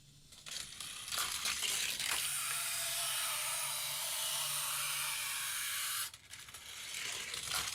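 Hot Wheels die-cast Corvette C7.R running down a plastic track: clattering and clicking as it rolls down the ramp and through the loop, then a steady hiss with a faint hum for about four seconds that stops suddenly, then more rattling.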